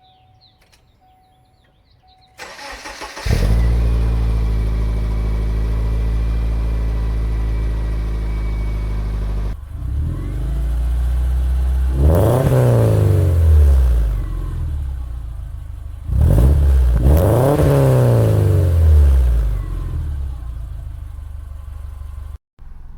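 The 2000 Subaru Impreza 2.5RS's flat-four is cranked by the starter, catches and runs at a fast idle through an OBX cat-back exhaust with its midpipe leak repaired. After that it is revved twice, each rev rising and falling over about two seconds, then drops back to a lower idle.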